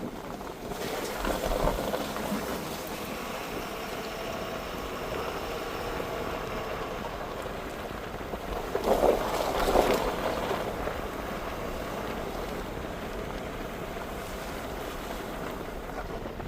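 Ford Super Duty pickup driving slowly on a sandy dirt forest road in four-wheel drive, heard from inside the cab: a steady engine and tyre rumble with wind noise. It swells louder briefly about two seconds in and again near ten seconds.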